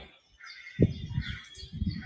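Birds chirping and calling, with a string of low pulsing calls.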